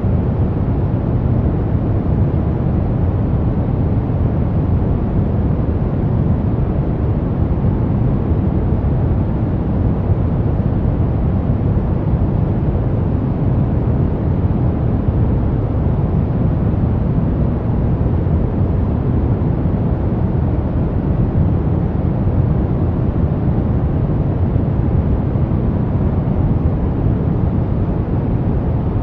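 Brown noise: a steady, deep rushing noise, heaviest in the low end and thinning toward the treble, with no changes or events.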